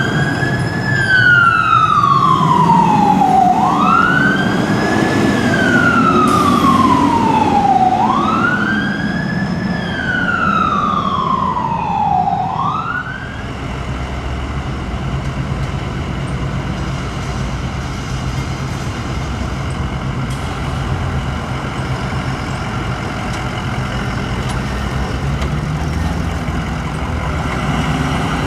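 Emergency vehicle siren wailing on a response run, three slow cycles each with a quick rise and a long fall in pitch, stopping about halfway through. After that a heavy vehicle's engine and passing traffic run steadily.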